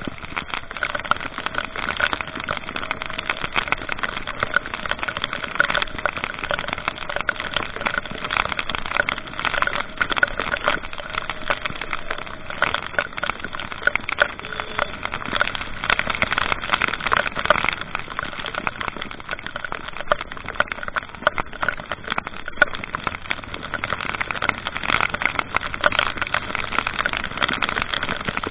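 A vehicle running on the road, its engine going steadily under a dense, continuous crackling noise.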